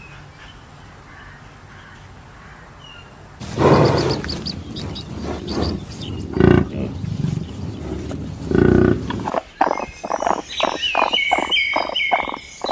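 A large animal's loud, rough calls beginning a few seconds in, with two strong low bursts, followed near the end by a fast series of short high-pitched calls.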